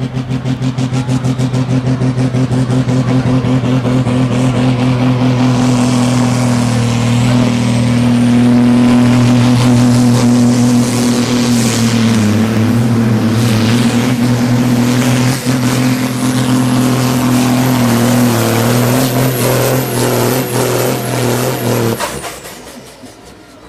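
Super Sport class pulling tractor running loud at full throttle through a pull: a steady deep engine tone with a high whine that rises slowly over the run. The engine is shut off abruptly near the end, when the run is over.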